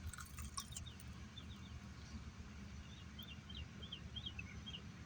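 Quiet eating: a few soft crunchy clicks near the start as fried battered shrimp is bitten. Behind it runs a series of faint, short, falling chirps, like a bird, over a low steady hum.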